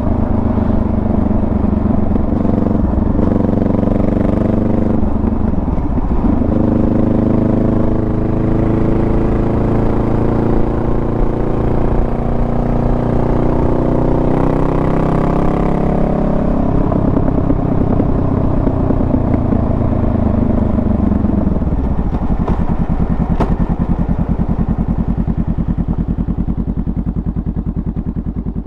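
Honda Rebel 500's parallel-twin engine running under way: a dip in revs about six seconds in, then a steady climb in pitch as it accelerates, before it eases off and slows to a low, even beat that fades toward the end.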